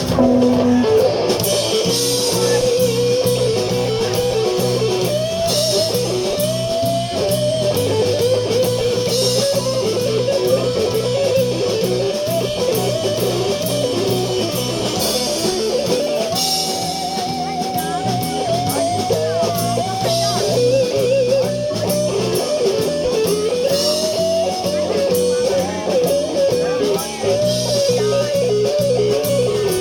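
Live blues-rock band playing an instrumental passage: an electric guitar solo with bent notes, over bass and drums.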